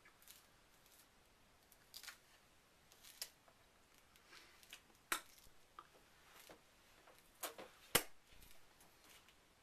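A few faint, sharp clicks and taps of small objects, irregularly spaced, the sharpest about eight seconds in.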